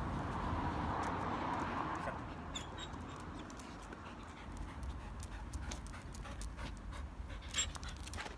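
A dog panting for about the first two seconds, followed by scattered light taps and clicks.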